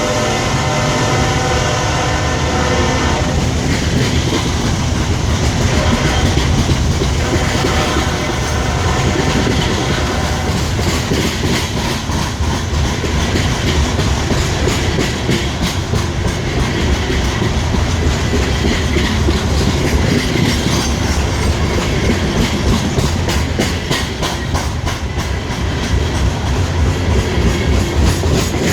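CSX coal train passing: the locomotive horn sounds until about three seconds in, with a second, fainter blast a few seconds later. Then the steady heavy rumble of the train rolling by, with the wheels clicking over the rail joints.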